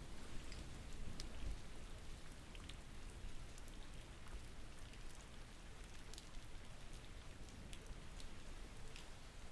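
Steady rain falling, with scattered sharp drops ticking at irregular moments.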